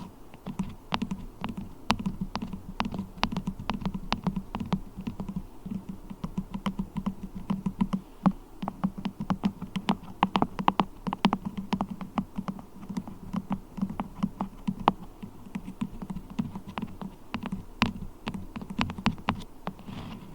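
Beeswax worked close to the microphone, giving rapid, irregular clicks and taps, several a second.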